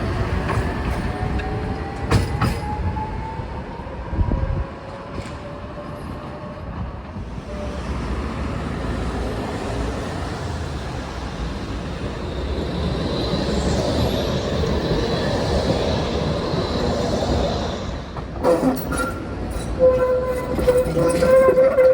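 A Zagreb city tram running on street track. Its electric traction motors whine, rising in pitch as it accelerates in the first few seconds, then its wheels rumble along the rails with a high squeal partway through. Near the end come several clicks and a steady pitched tone.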